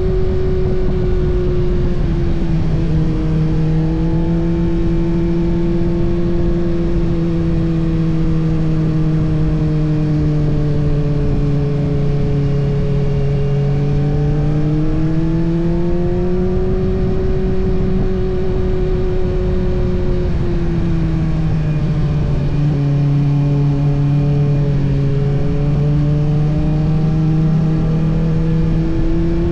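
Kawasaki ZX-6R's inline-four engine pulling steadily on the move, its note slowly rising and falling with the throttle. The pitch drops about two seconds in and again around twenty-one seconds in.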